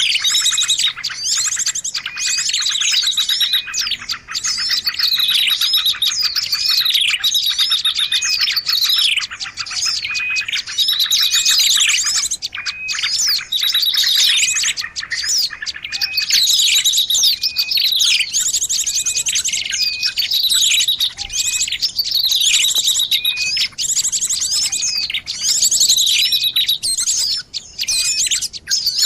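Dense, unbroken chorus of small songbirds. Many overlapping chirps, rapid trills and short falling whistles run on together, as in a bird-lure recording mixed from several species.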